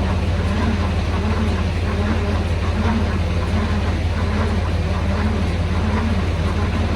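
Heavy diesel truck engine idling, a steady low drone with a fainter tone above it that wavers up and down.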